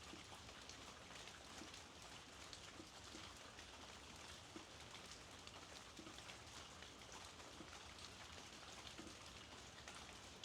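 Faint, steady rain falling, with many small individual drop ticks heard through the even hiss.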